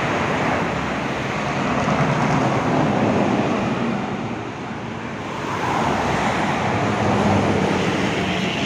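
Road traffic going past: a steady rush of vehicles, dipping a little around the middle and then growing louder again as a heavy engine comes closer.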